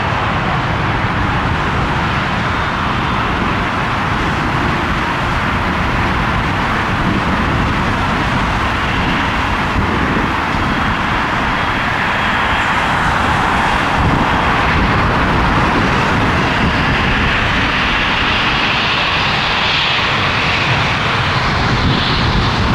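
Jet engines of an Airbus A340-300 airliner: a loud, steady noise that swells a little past the middle, with faint whining tones coming in over the second half.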